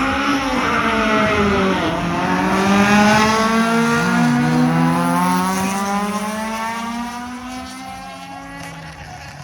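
Race car engine accelerating hard on a drag run. Its pitch climbs, drops sharply twice at gear changes, then sinks slowly and fades as the car pulls away.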